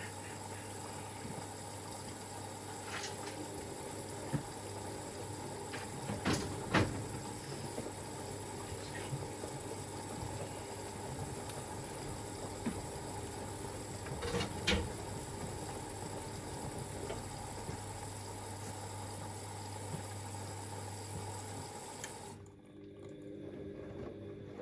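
Siemens Extraklasse XLs 140 A front-loading washing machine during its wash: water swishing in the drum over a steady motor hum, with a few light knocks. About 22 seconds in, the hum and the hiss stop.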